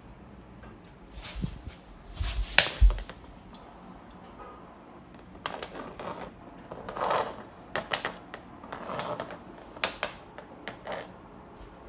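Scratchy rustles and irregular clicks of a pet brush being worked against a cat as the cat bites and chews at it, with a few louder bumps about two to three seconds in.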